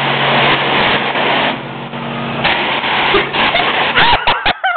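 Self-serve car wash spray, a steady rushing hiss over a low machine hum that cuts out about halfway through. Near the end a voice gives a few short high squeals.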